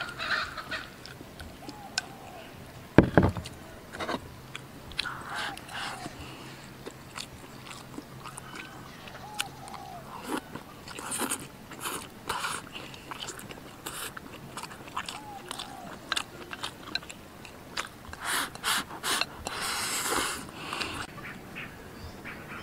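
Close-up chewing and biting of a person eating mouthfuls of steamed pork belly with preserved mustard greens and rice, with many small clicks and mouth noises. A single loud thump about three seconds in.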